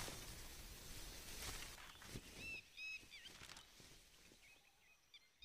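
Faint outdoor quiet with a bird giving a few short chirps near the middle.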